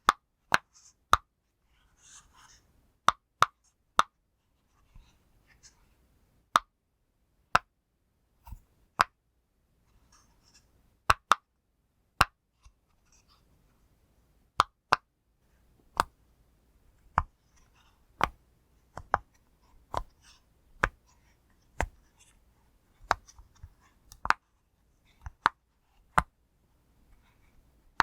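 Pop fidget toy being pressed bubble by bubble: a slow, irregular series of sharp single pops, about one a second, with faint handling sounds between them.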